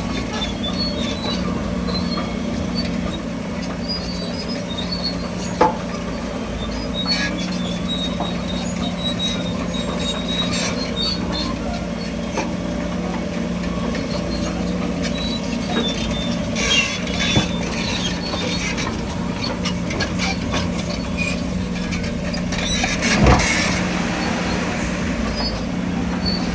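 Crawler bulldozer's diesel engine running steadily, with high metallic squeaks and a few sharp knocks, about a quarter of the way in, around two-thirds and near the end.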